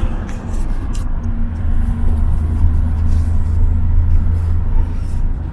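Car in motion, heard from inside: a steady low engine hum over road rumble.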